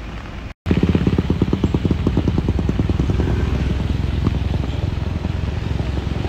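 A motorcycle engine running hard close by, its rapid firing pulses clearly audible as it labours up a steep slope. The sound cuts out completely for a moment about half a second in.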